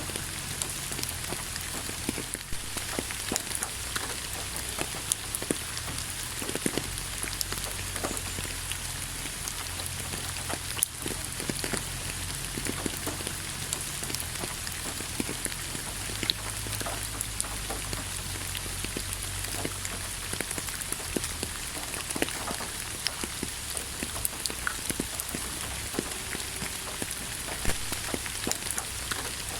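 Steady rain falling, with many separate drops striking close by as scattered light taps over the even hiss.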